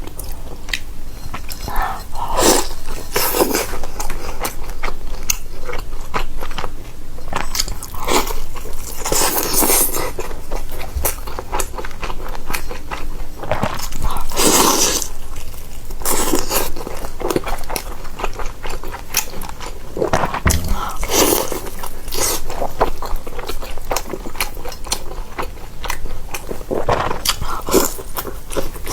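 Close-up bites and chewing of a pan-fried stuffed flatbread, the crust crunching in repeated strokes, with several louder crunchy bites among the chewing.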